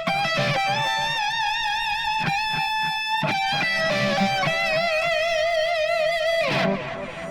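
Instrumental soundtrack music: a lead electric guitar holds long notes with vibrato over a steady low beat, then slides down in pitch near the end.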